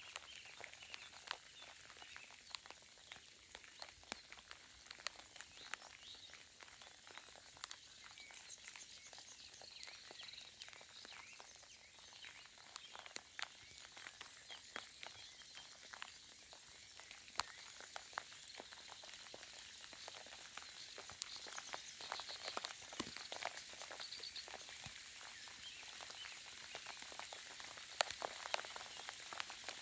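Soft rain falling, with scattered individual raindrops tapping irregularly over a faint steady hiss.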